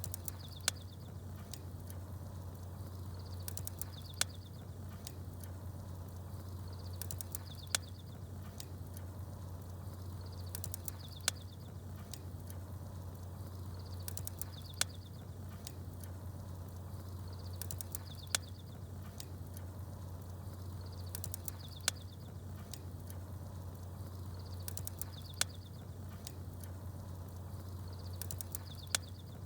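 Campfire crackling with small birds chirping: a sharp pop about every three and a half seconds, each just after a short burst of high bird twitter, over a steady low hum. The pattern repeats identically, like a looped ambience track.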